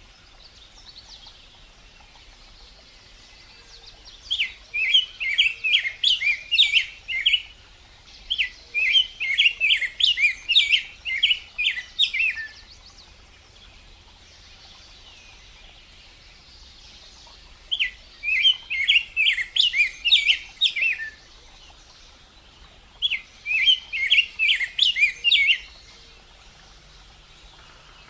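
A small songbird singing in four bouts of rapid, repeated high chirping notes, each bout about three to four seconds long, with pauses of faint background hiss between them.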